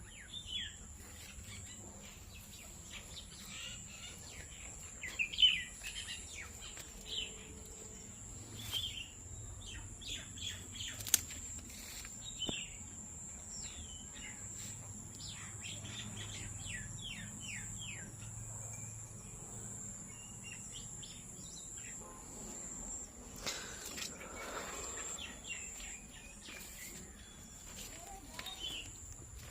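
Birds chirping in short calls scattered throughout, over a steady high-pitched tone.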